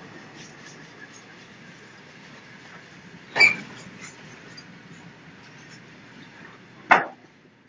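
Freight train of BTPN petrol tank wagons rolling past behind twin WDM3A diesel locomotives: a steady rumble of wheels on rail. Two sudden loud bangs stand out above it, about three and a half seconds apart, the second near the end.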